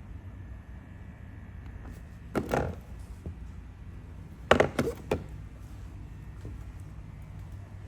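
A clunk about two and a half seconds in, then a quick run of three or four knocks near the middle, over a low steady rumble.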